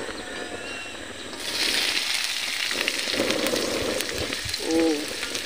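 Thin sliced ingredients hitting hot cooking oil in a wok and frying with a steady sizzle that starts about a second and a half in.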